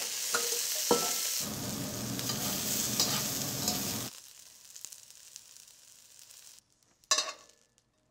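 Broccoli florets sizzling as they sear in a hot, oiled wok, with metal tongs clicking against the pan as they are turned. The sizzle cuts off sharply about four seconds in and it goes quiet, with a short clink near the end.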